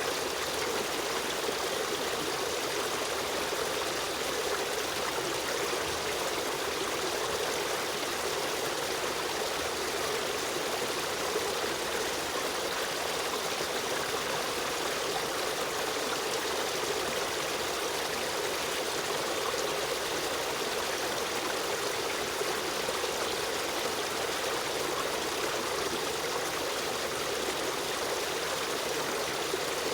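River stream running: a steady rush of flowing water with no breaks or changes.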